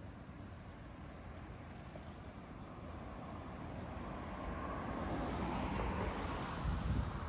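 Road traffic: a vehicle on the road draws closer, growing louder to a peak near the end and then starting to fade as it passes.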